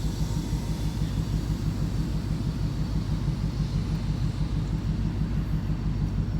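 Ford Mustang 5.0 V8 running at low revs with a loud exhaust, an even, pulsing low rumble.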